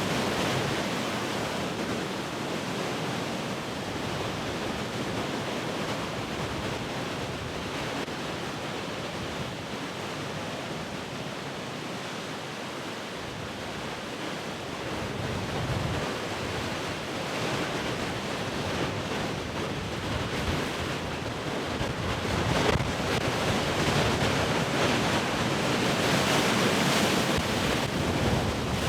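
Heavy ocean surf washing steadily, easing off a little midway and then swelling louder as a bigger wave breaks in the last third.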